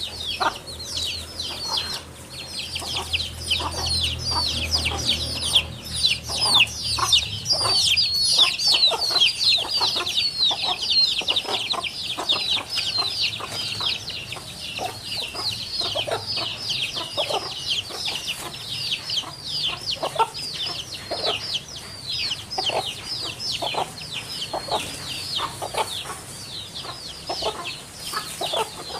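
Many birds chirping at once: a dense, continuous run of quick, high, downward-sliding chirps with some lower calls mixed in.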